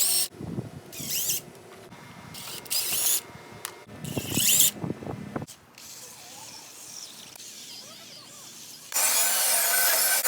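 Track-building in a workshop: several short scrapes and knocks as PVC pipe and wood are handled, then a power drill runs steadily for about two seconds near the end.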